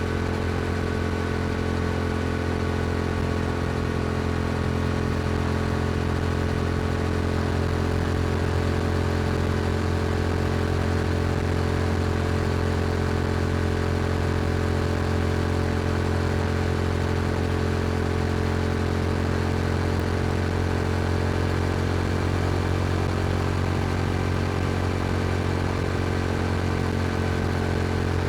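Yamaha R7's 689 cc parallel-twin engine running through an Akrapovic exhaust, held at a steady cruising speed with no change in revs.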